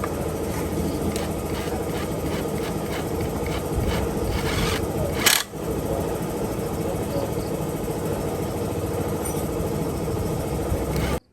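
Husqvarna 365 two-stroke chainsaw engine running steadily. It dips briefly with a sharp click about five seconds in, then stops abruptly near the end.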